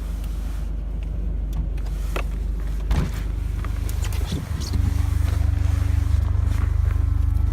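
Sports-car engine running steadily, with a few light knocks. A little under five seconds in, the low rumble grows louder and a steady hum sets in.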